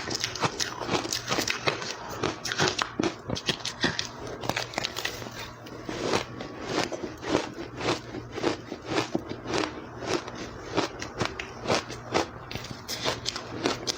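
Ice being chewed close to the microphone: a dense, irregular run of sharp crunches and crackles, several a second.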